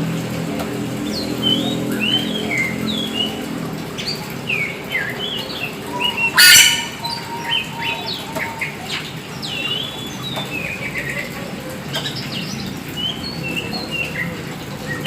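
Black oriental magpie-robin (kacer hitam) singing in full voice, a continuous run of varied whistles and swooping chirps. A short, loud, harsh burst of noise cuts in about six and a half seconds in.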